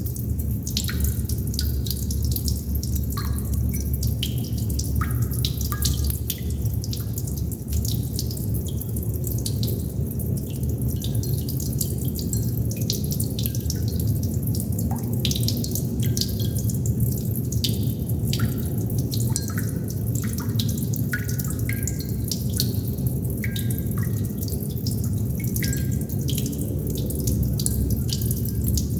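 Water droplets dripping at an uneven pace, many drops a second, each landing with a short click or a brief ringing plink. A steady low rumble runs underneath.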